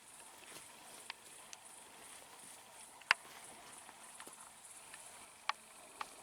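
A few sparse sharp clicks and knocks, the loudest about three seconds in, over a faint steady high-pitched hiss.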